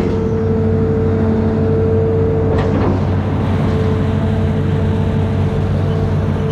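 Amphibious excavator's diesel engine running steadily, with a steady higher tone over it and a brief harsher burst about two and a half seconds in.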